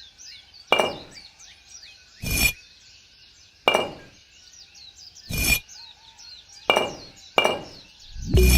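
Six short, sharp clinks, each ringing briefly, spaced about one to one and a half seconds apart, over faint birdsong. Music starts near the end.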